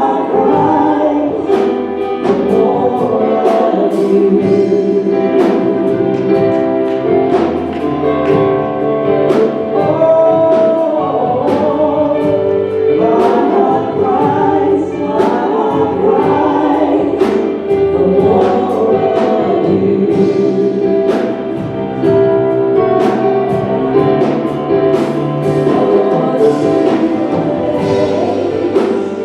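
A slow gospel worship song sung by a group of singers with band accompaniment and a steady drum beat.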